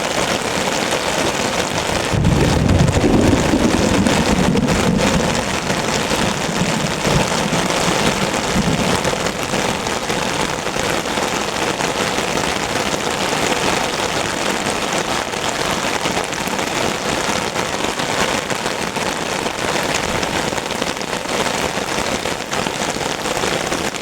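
Heavy rain drumming steadily on an umbrella. About two seconds in a low rumble of thunder rises, then fades away over several seconds.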